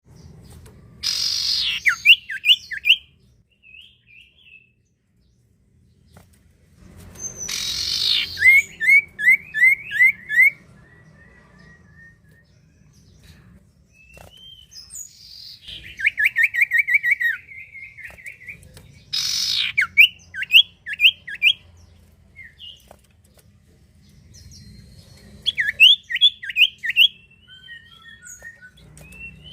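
Common iora (sirtu, cipoh) singing loudly in repeated phrases. Several phrases open with a harsh, raspy burst and then run into a quick string of short, falling whistled notes, about four or five a second. There are pauses of a few seconds between phrases.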